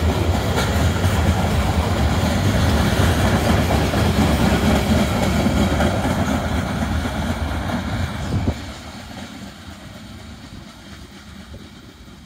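Covered hopper cars of a freight train rolling past, their steel wheels rumbling and clattering on the rails. The sound drops sharply about eight and a half seconds in as the train clears the spot, then fades as it moves away.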